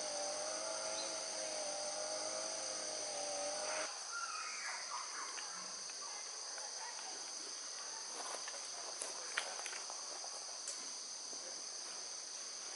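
Steady, high-pitched chorus of insects calling in a late-summer forest. For the first four seconds a low, wavering droning hum runs under it and then cuts off abruptly. After that come a few faint chirps and a single sharp click.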